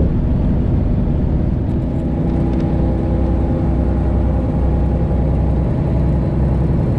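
Detroit Diesel 12.7-litre engine of a Freightliner Classic XL semi truck running steadily under way, with a few higher tones coming in about two seconds in.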